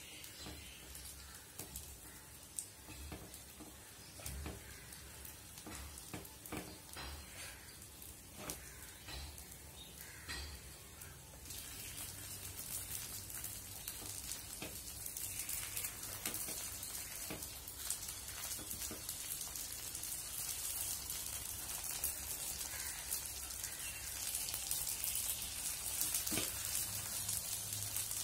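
Paniyaram batter frying in oil in a cast-iron paniyaram pan: a steady sizzle and crackle that grows louder about twelve seconds in. Scattered scrapes and taps come from a knife tip turning the paniyarams in their wells.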